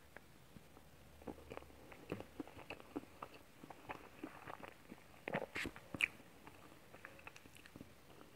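Close-miked chewing of a mouthful of chocolate cake with ice cream: soft, wet mouth clicks and smacks at an uneven pace, with a couple of sharper clicks about five and six seconds in.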